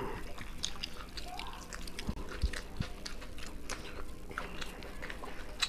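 Close-up mouth sounds of people eating chicken biryani by hand: wet chewing, lip smacks and many small scattered clicks.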